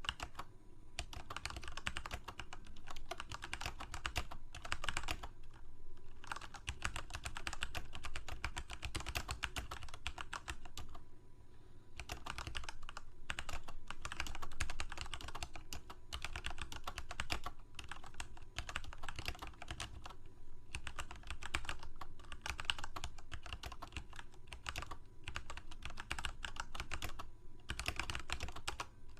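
Fast, continuous typing on a computer keyboard: a dense patter of key clicks, broken by a few short pauses.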